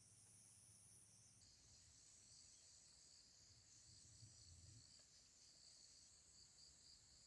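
Faint chorus of crickets chirring in the forest, a steady high-pitched drone that shifts slightly lower about a second and a half in.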